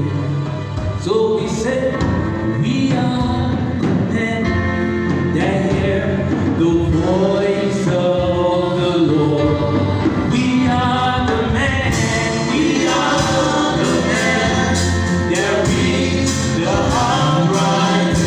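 Gospel song with a choir singing over a full band backing.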